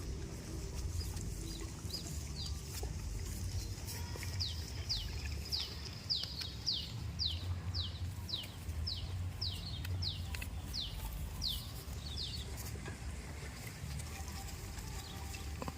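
A bird calling: a run of short, high notes, each sliding down in pitch, repeated about twice a second for some ten seconds before stopping, over a steady low rumble.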